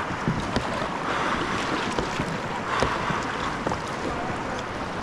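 River water rushing and splashing around a kayak, swelling and easing in waves, with scattered small knocks and drips.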